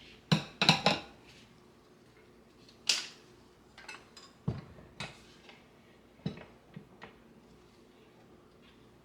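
Kitchenware being handled: a quick run of sharp clinks and knocks in the first second, then scattered single knocks over the next few seconds.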